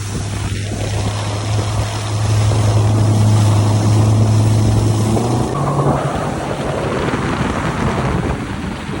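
Bay boat's outboard motor running steadily, with wind and water rushing past. About five and a half seconds in, the engine note steps up in pitch.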